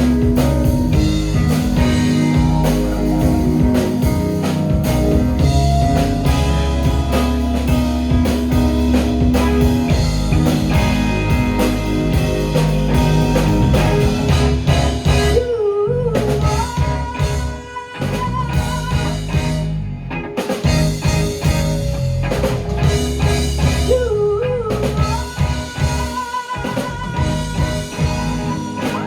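Live rock band playing a song, with drums and guitar.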